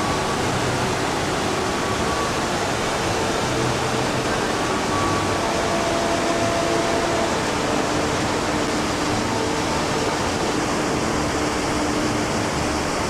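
Waterfalls on the Krka River rushing with a steady, loud roar of falling water.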